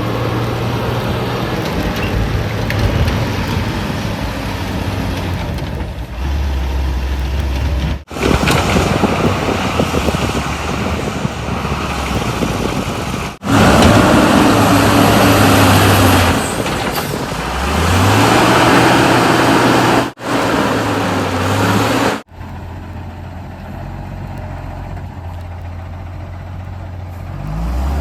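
Heavy diesel engines of a backhoe loader and tipper trucks running and revving in several clips joined by abrupt cuts. The engine pitch rises sharply about two thirds of the way through.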